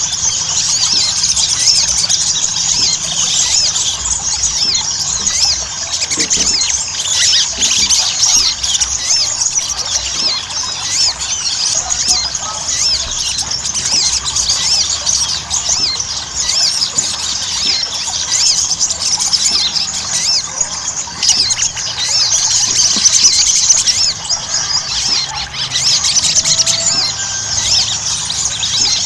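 Sogon (sogok ontong) singing a continuous, rapid, high-pitched twittering chatter, a non-stop run of squeaky notes.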